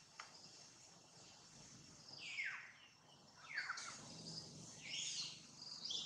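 Faint high bird chirps: a few short calls that sweep steeply downward, then higher, brighter chirps near the end, over quiet forest ambience.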